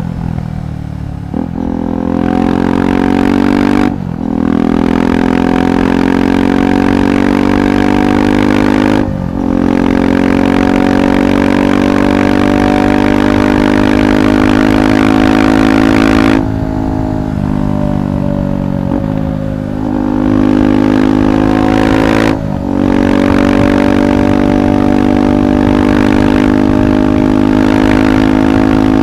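KTM 390 Adventure SW's single-cylinder engine through a Red Rooster aftermarket exhaust, riding under load. The pitch climbs slowly, with brief dips at several gear changes, and falls for a few seconds past the middle as the throttle eases.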